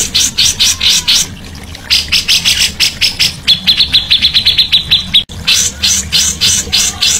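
Songbird singing loud, repeated sharp high notes at about three or four a second. Midway it breaks into a fast, even trill of clear notes lasting about a second. The sound drops out for a moment, then the repeated notes resume.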